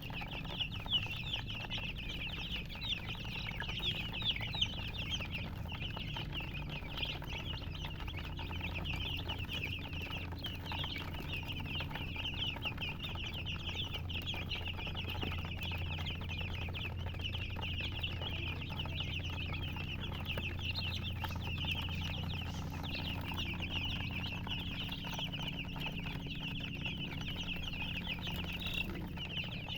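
Baby chicks peeping without pause, many short high-pitched chirps overlapping, over a steady low hum.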